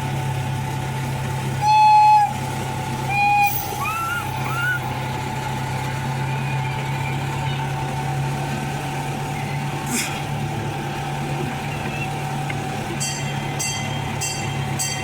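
A zoo ride train running steadily, its horn giving two short toots about two and three seconds in. A run of quick clicks near the end.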